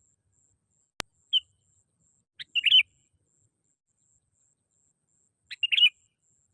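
Sooty-headed bulbul calling: a single short note about a second in, then two brief, chattering phrases about three seconds apart. A sharp click comes just before the first note.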